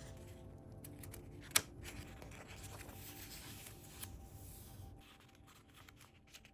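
Paper being handled and cut with scissors: soft rustling and sliding of sheets, with one sharp click about one and a half seconds in.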